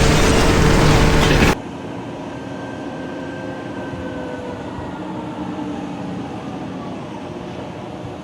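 A loud rush of noise for about a second and a half that cuts off sharply, then a steady machine-like rumble with a faint whine slowly falling in pitch.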